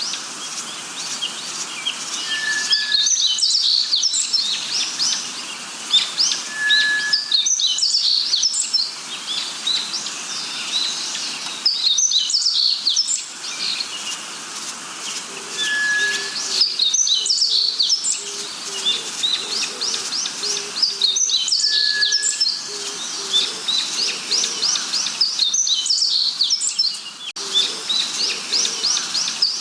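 Birds chirping and singing in a dense, busy chorus, with bursts of quick high chirps every four or five seconds and a few short, clear whistled notes. In the second half a low, short note repeats steadily underneath.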